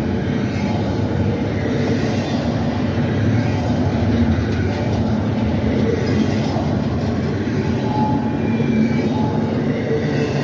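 CSX freight train rolling past on the rails: a steady rumble of wheels and cars.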